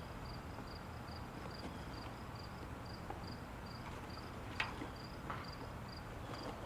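An insect, likely a cricket, chirping steadily in short high-pitched pulses at about two to three a second, with a few faint snaps or crackles about midway.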